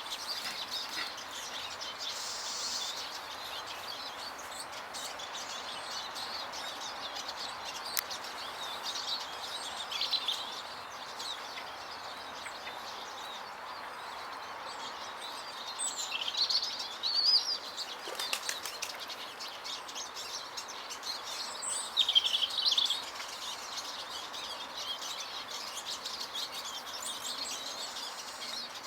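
Small garden songbirds at feeders chirping and calling in short bursts, with louder flurries of calls about halfway and about three-quarters of the way through, and brief wing flutters, over a steady background hiss.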